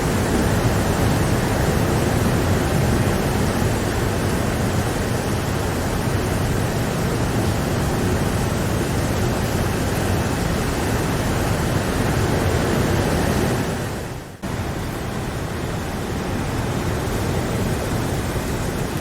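Steady, dense rain noise. About fourteen seconds in it dips sharply for a moment and cuts back in a little quieter, like a splice in a looped recording.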